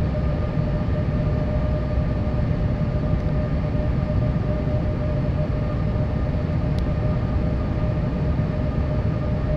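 Steady cabin noise inside a Boeing 787 airliner: a constant low rumble of the engines and airflow, with a faint steady hum on top.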